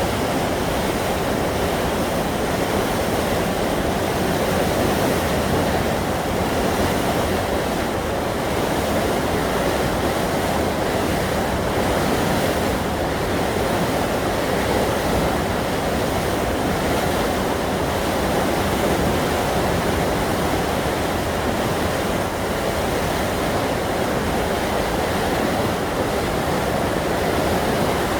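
Steady rushing of a swollen river in flood, its water running high and fast after heavy rain.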